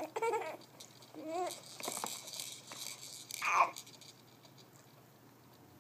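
An 11-month-old baby making silly vocal noises: a few short, high-pitched babbling squeals and breathy sounds in quick bursts over the first four seconds.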